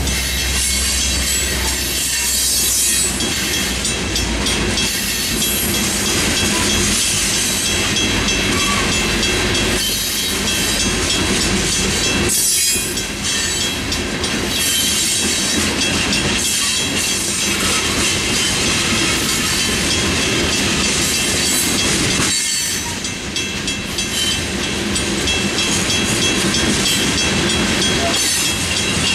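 Loaded freight cars of a rock train rolling over a grade crossing: steady wheel-on-rail noise with clickety-clack over the joints. The locomotive's low engine rumble fades in the first few seconds, and the noise dips briefly twice.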